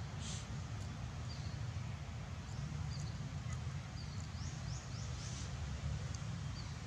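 Small birds chirping now and then with short high notes, with a quick run of rising chirps about two-thirds of the way through, over a steady low rumble of outdoor ambience.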